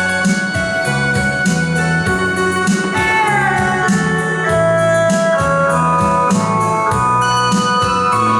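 Electronic keyboard music: sustained organ-like chords and a melody line that slides down in pitch about three seconds in, over a steady beat.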